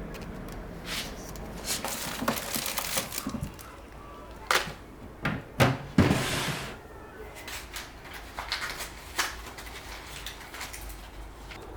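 Handling noises from repairing a torn window insect screen: a scatter of knocks and clicks, with a short rasping rush about six seconds in.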